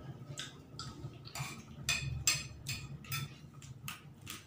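A man eating with his mouth: wet chewing and lip-smacking, heard as short, irregular clicks.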